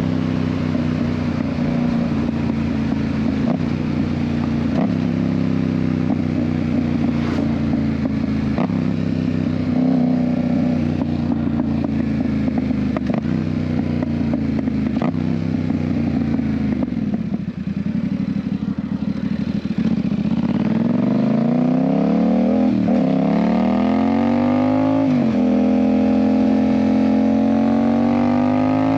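Yamaha MT-07's parallel-twin engine through an aftermarket IXIL exhaust, heard from the rider's seat: running steadily at cruising speed, then easing off with the pitch falling about 17 seconds in. From about 20 seconds in it accelerates with rising pitch, upshifts near 25 seconds, and climbs again.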